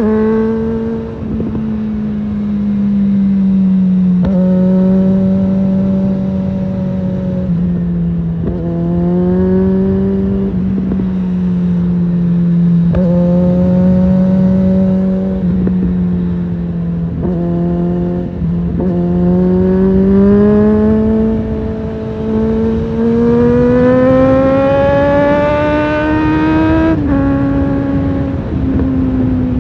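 Suzuki GSF650 Bandit's inline-four engine through a Storm aftermarket exhaust, heard from the rider's seat while riding: it holds steady mid revs with several brief throttle dips or gear changes, then pulls up in pitch for about five seconds before the revs drop near the end and it eases back.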